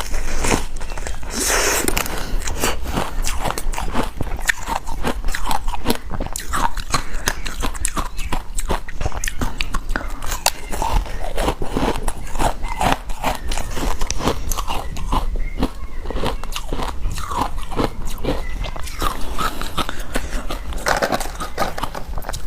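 Close-miked crunching and chewing of frozen ice: rapid, dense crackling bites throughout.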